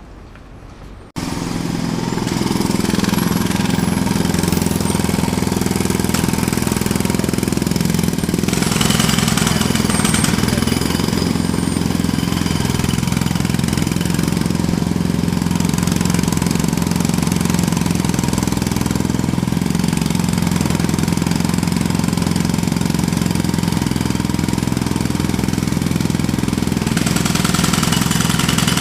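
Jackhammer hammering continuously at a fast, even rate. It starts abruptly about a second in, after a moment of quieter background.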